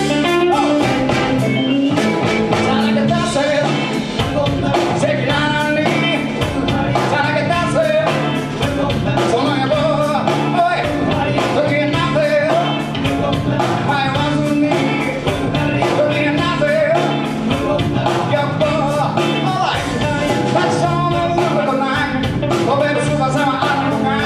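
Live rock-and-roll band playing with a singer, over a steady drum beat and bass line.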